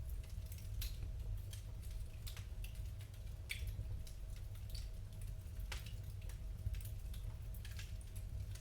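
Wood fire crackling in a fireplace: irregular sharp pops and snaps, roughly one a second, over a steady low rumble.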